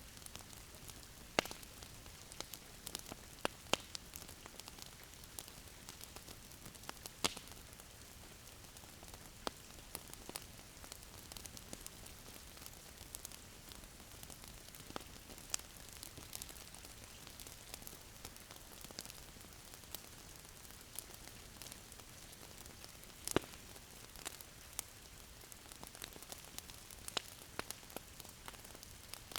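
Wood fire crackling in a fireplace: a soft steady hiss with irregular sharp pops and snaps, a few louder ones scattered through it.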